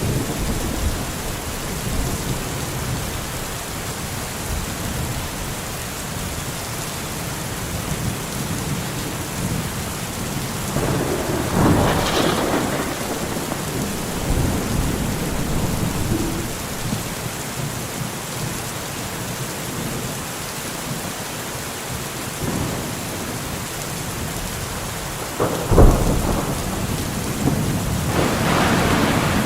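Steady rain with rolling thunder. The thunder swells about a third of the way in and again near the end, and there is a sharp loud crack a few seconds before the end.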